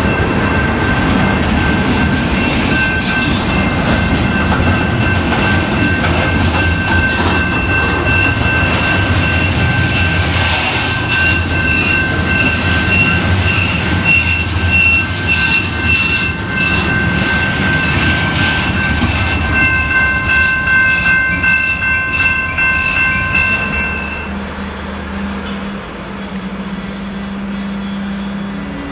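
Freight cars of a San Diego and Imperial Valley Railroad train rolling slowly past, wheels giving a steady high squeal over a rumble, with rapid clicking over the rail joints in the middle stretch. About 24 seconds in the squeal stops, the sound drops and a lower hum remains.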